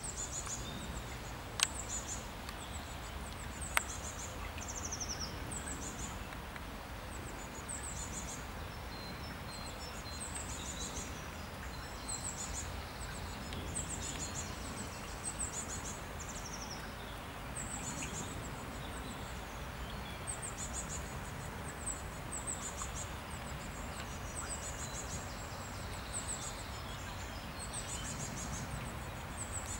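A small songbird sings short, high chirping phrases again and again, every second or two, over a steady low outdoor rumble. Two sharp ticks stand out in the first four seconds.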